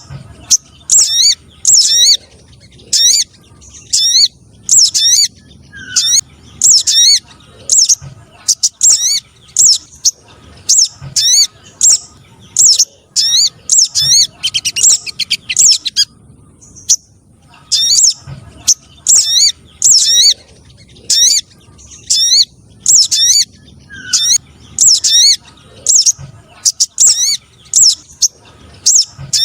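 Streaked spiderhunter calls: short, sharp, high notes repeated about once or twice a second, with a pause of about two seconds around the middle.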